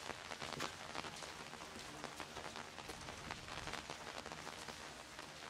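Steady rain falling on wet paving, a continuous hiss with many sharp drop ticks close by.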